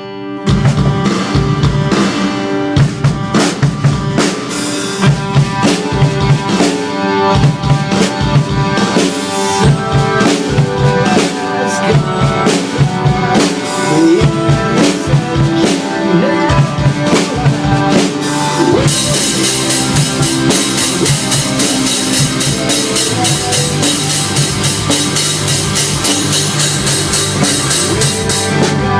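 A rock band's song with a drum kit playing a steady beat, no singing. About two-thirds of the way in, the sound turns brighter and busier, with a constant high wash over the beat.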